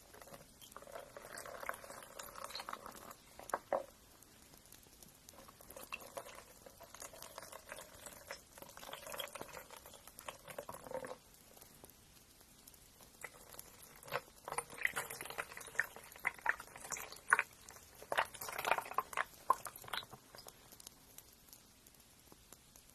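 Nails being ground, in three stretches of scraping with scattered clicks and a faint steady motor-like tone, each stretch separated by a short lull; the busiest, most clicky stretch comes in the second half, followed by a quieter lull near the end.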